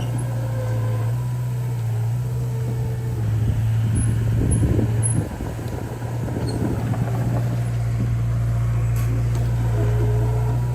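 Diesel engine of heavy earthmoving machinery running steadily, its pitch stepping up and down slightly. It is joined by a louder rattling noise about three and a half seconds in that cuts off sharply near the middle.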